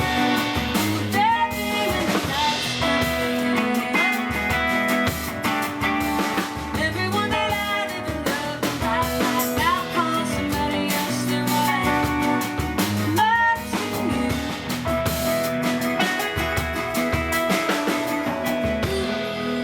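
Live band music: guitar with drums, and a voice singing a melody.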